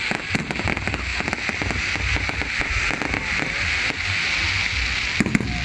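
Fireworks crackling, a dense run of rapid pops over a steady hiss, with a louder bang about five seconds in.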